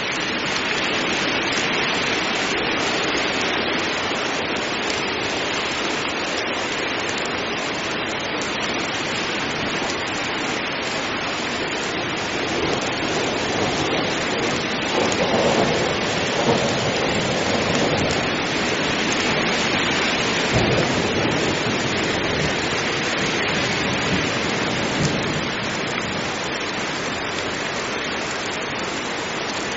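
Heavy rain falling steadily, with a rumble of thunder swelling up through the middle.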